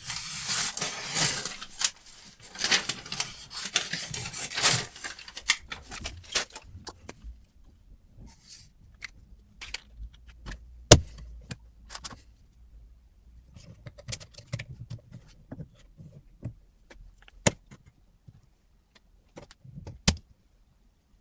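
Metal parts being handled: scraping and rustling for the first six seconds or so, then scattered metallic clicks and knocks, the loudest a single sharp knock about halfway through.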